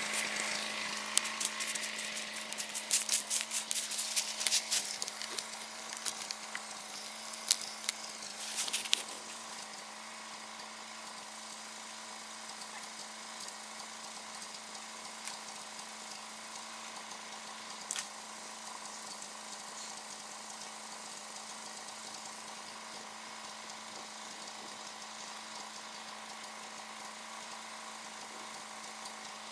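Allis-Chalmers tractor engine running steadily, with a cluster of rattling, clattering knocks over the first nine seconds or so.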